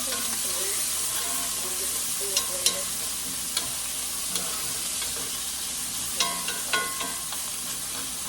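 Chopped onions sizzling steadily in hot olive oil in a frying pan while being stirred, with a handful of sharp clicks as the utensil knocks against the pan.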